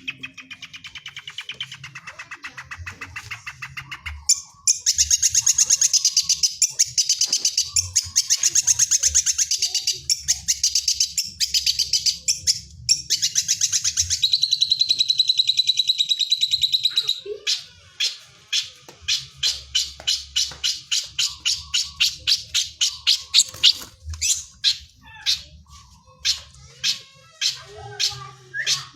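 Long-tailed shrike (cendet) singing a rapid, loud chattering trill mimicking lovebird calls, then breaking into a run of separate sharp chirps about two or three a second over the last ten seconds or so.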